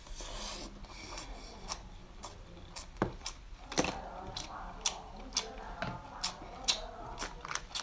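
Close-miked chewing of soft crab meat: wet mouth clicks and lip smacks at about two a second, with two louder smacks about three and four seconds in.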